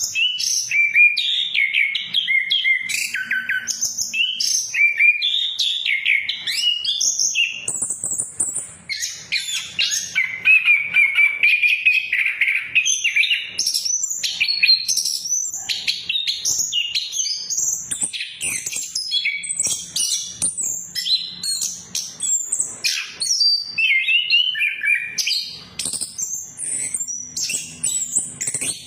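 Orange-headed thrush (anis kembang) singing a long, unbroken, varied song of rapid high-pitched chirps, trills and whistled notes.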